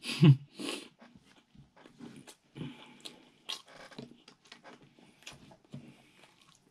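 Close-up mukbang eating sounds: a short voiced mouth sound twice in the first second, then faint wet chewing, lip smacks and clicks as fingers pick up rice and food goes into the mouth.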